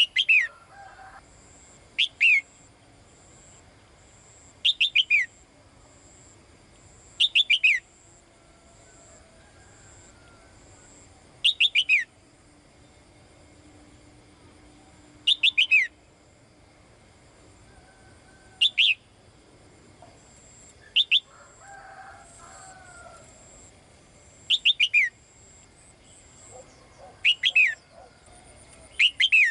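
Female caged songbird calling to a male, giving a short call of two to four quick falling notes, repeated about every two to four seconds.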